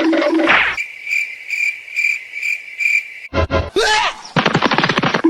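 Crickets chirping, about two chirps a second for two seconds, the kind of cricket sound effect laid in to mark an awkward pause. It is set between busy bursts of comedy sound effects, some with sliding pitch.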